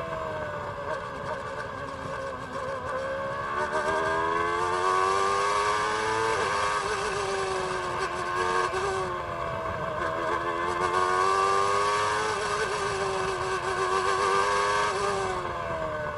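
Ford Cosworth HBD7 3.5-litre V8 of a 1993 McLaren MP4/8 Formula One car, heard onboard, revving hard. Its pitch climbs through the gears under acceleration and drops away under braking, several times over.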